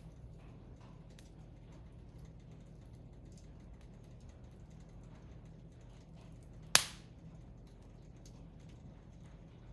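Wood fire burning in a Picogrill fire pit, with faint scattered crackles and one loud sharp pop about seven seconds in.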